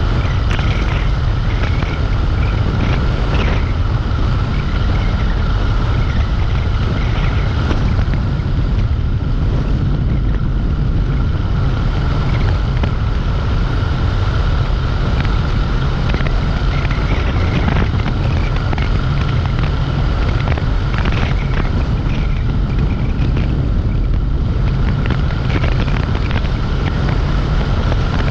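Dualtron Compact electric scooter in motion: heavy wind buffeting on the microphone under a steady high-pitched motor whine, with scattered light ticks.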